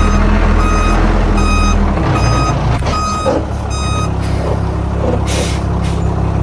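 A heavy construction vehicle's reversing alarm beeps about one and a half times a second over its diesel engine running, then stops about four seconds in. The engine note drops about two seconds in, and a short hiss of air follows a second after the beeping ends.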